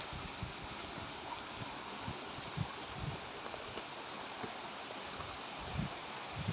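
River cascades rushing steadily, with soft low thumps now and then.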